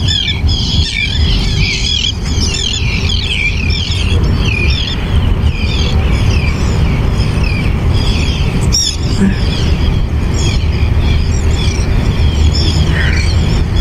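A flock of birds calling in rapid, overlapping chirps, densest in the first half and thinning later, over a steady low rumble of wind on the microphone. A single short knock about nine seconds in.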